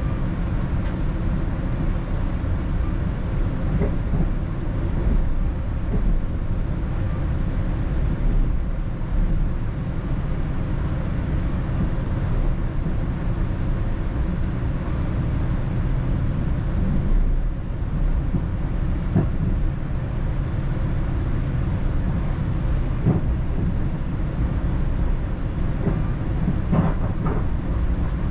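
Northstar commuter train running along the track, a steady low rumble with a few faint clicks from the wheels.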